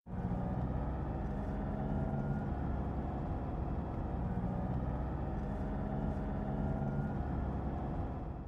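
Car engines running, a steady low drone with a rise and fall that recurs every couple of seconds.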